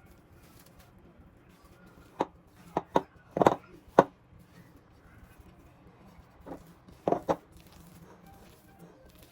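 Irregular sharp knocks of kitchen work on a hard surface, like a knife or utensil striking a board or counter. There are about six in a quick cluster a couple of seconds in and three more near the end.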